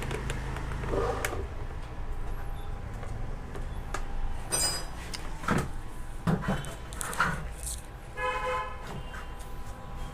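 Vehicle horns tooting, briefly about four and a half seconds in and again, longer, about eight seconds in, over a steady low hum with scattered knocks and clicks.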